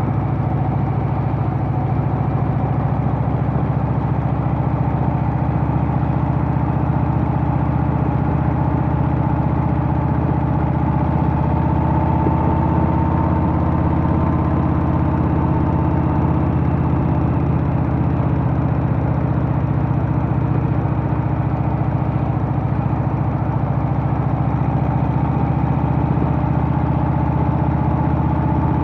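Harley-Davidson Softail's Milwaukee-Eight V-twin engine running steadily under the rider, its pitch drifting up slightly around the middle.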